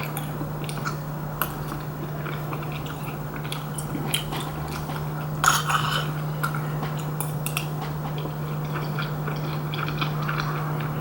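A person chewing a mouthful of tteokguk (Korean rice cake and dumpling soup), with scattered light clicks of utensils against the bowl over a steady low hum.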